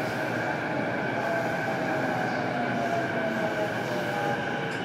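Running noise heard inside an E233-series electric train's motor car at speed: a steady rumble of wheels on rail, with a whine from the traction motors and inverter drifting gently down in pitch.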